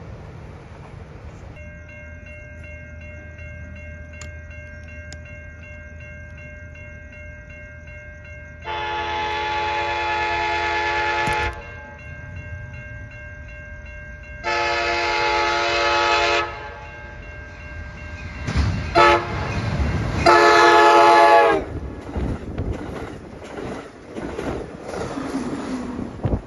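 Approaching train sounding its horn in the long, long, short, long grade-crossing pattern, the last long blast the loudest, then the train rumbling and clattering past.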